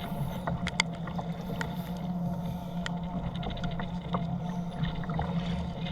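Sea water and wind noise around a kayak on choppy water, with a steady low hum underneath and scattered sharp ticks at irregular times.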